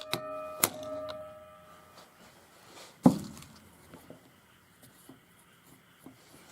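Small metal parts and tools being handled during carburetor disassembly: a couple of sharp clinks that ring on with a bell-like tone, then one heavier knock about three seconds in, followed by faint light clicks.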